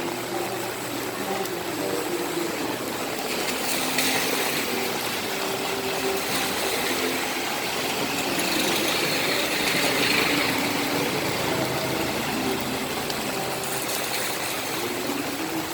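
Steady rain hiss, with a motor vehicle's engine running and passing on the wet street, swelling to its loudest about ten seconds in.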